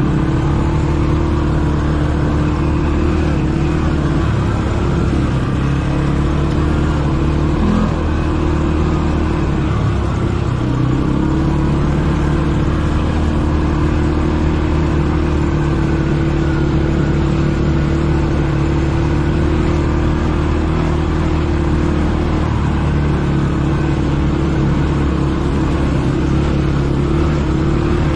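ATV engine running under way at a steady pace: a loud, constant drone that hardly changes in pitch.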